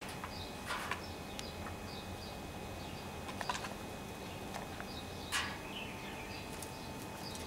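Small birds chirping at short intervals, with a few brief rustling scuffs, the clearest about five seconds in.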